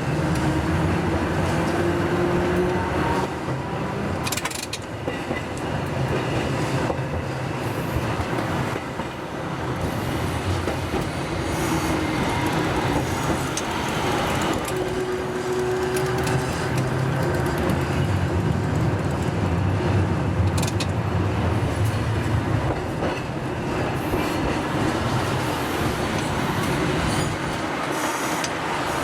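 Hakodate City Tram Type 500 streetcar running, heard from the driver's cab: a steady rumble with its motor whine rising in pitch near the start and again about halfway through, and a few sharp clacks from the wheels on the rails.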